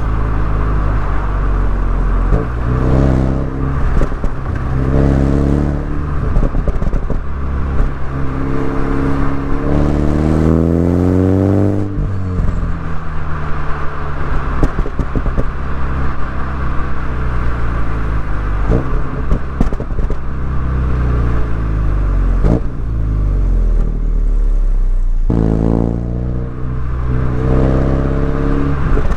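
Mini Cooper S engine and exhaust under way, revving up and easing off again and again through bends. It makes a long rising pull near the middle, falls away slowly, drops off suddenly later and climbs once more near the end.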